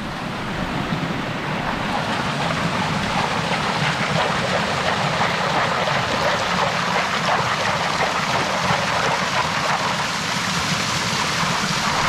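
Water and gravel sloshing and rattling in a gold pan as the sample is swirled and washed, a continuous wash of water with fine grit clicking, getting louder over the first two seconds.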